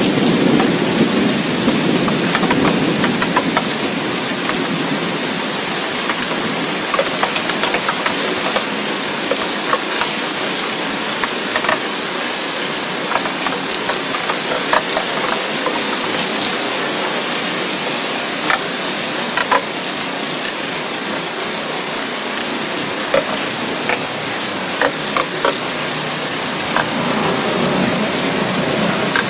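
Steady rain falling, with many scattered sharp drops ticking on a hard surface. A low rumble sits under it at the start, fades, and builds again near the end.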